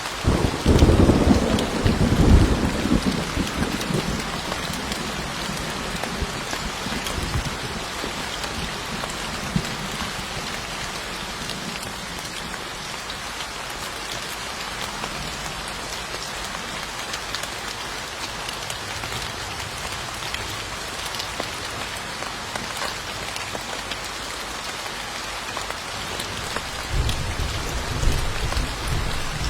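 Steady rain falling, with a roll of thunder rumbling low for a couple of seconds just after the start and another low rumble near the end.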